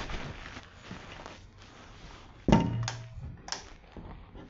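A sudden loud thump about halfway through, followed by a few lighter knocks or clicks.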